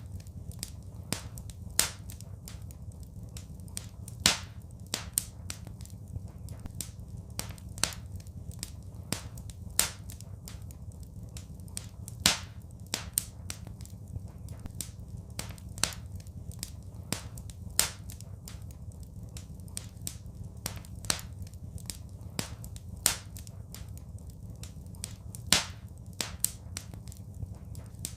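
Wood fire crackling in a fireplace: irregular sharp pops and snaps, with a louder crack every few seconds, over a steady low rumble.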